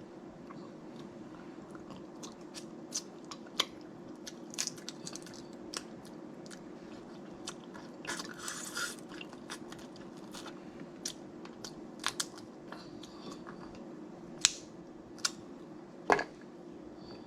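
Snow crab leg shells cracking and snapping in irregular sharp clicks, with close-up chewing of the crab, over a steady low hum.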